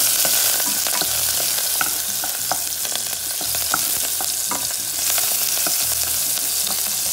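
Chopped onion, sweet pepper, oregano and cilantro sizzling in hot oil in a small nonstick pot over high heat, stirred with a wooden spoon that clicks and scrapes against the pan now and then.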